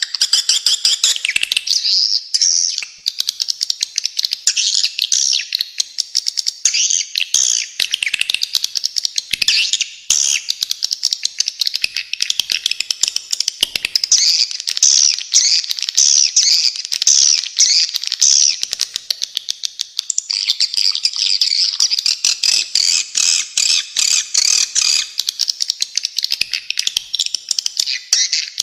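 Swiftlets calling: a dense, unbroken run of rapid high chirps, twitters and trills.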